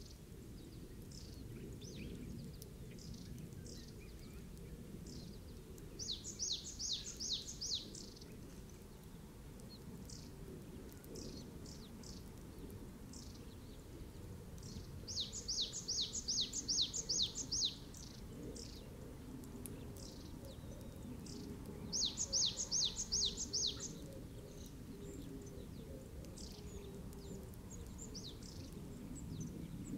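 A bird singing: three bouts of about two seconds, each a fast run of high notes sweeping downward, with scattered single chirps between them, over a steady low rumble of background noise.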